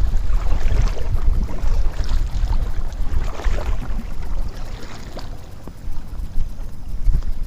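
Wind buffeting the microphone with a gusty rumble, and water splashing and lapping around a kayak for the first five seconds or so.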